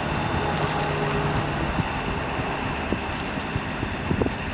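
Diesel engine of a Ford F550 Super Duty bucket truck, the Powerstroke, running at a steady drone.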